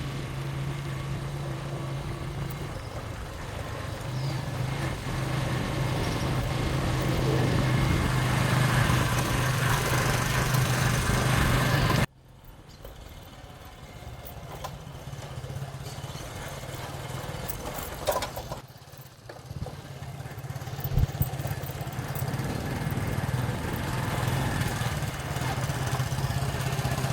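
Motorcycle engine running steadily under wind rush on the microphone while riding. The sound cuts off abruptly about twelve seconds in, then comes back quieter and builds up again.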